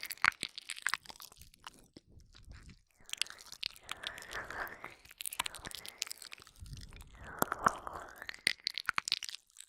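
Wet ear-licking mouth sounds close up on a binaural microphone: tongue and lip smacks with many sharp little clicks, in three bursts of a couple of seconds each with short pauses between.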